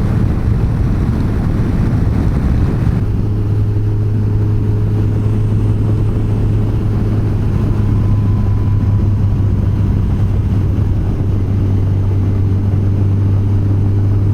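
Yamaha FJR1300's inline-four engine running at a steady, even pace, with wind rushing over the microphone that eases off about three seconds in.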